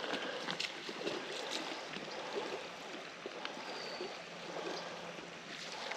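Creek water running, a steady rushing noise with small ticks and splashes scattered through it.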